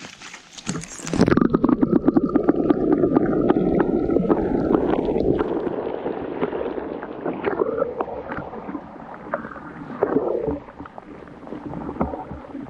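Muffled water sloshing and gurgling in a small spring-fed pond, starting suddenly about a second in, loudest for the next few seconds and then easing to a lower churning.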